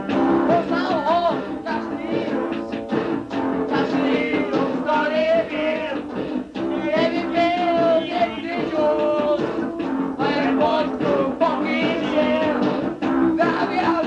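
Punk band playing a song, a sung vocal line over the full band with drums. A rough, lo-fi recording made on a dictaphone in a living room, dull at the top end.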